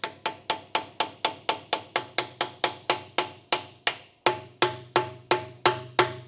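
Steady hammer taps, about four a second, driving a new axle seal into the axle tube of a GM 12-bolt rear end; each blow has a short metallic ring. After a brief pause a little past four seconds, the blows come slightly slower and harder as the seal goes in deeper.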